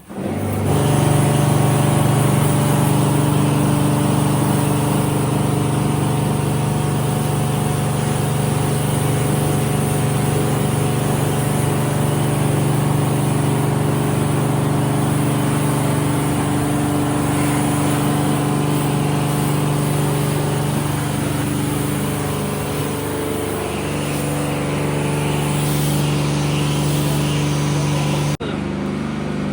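Pressure washer running with a steady motor hum while its water jet sprays, rinsing the car after the sponge wash. The sound starts suddenly and holds even throughout.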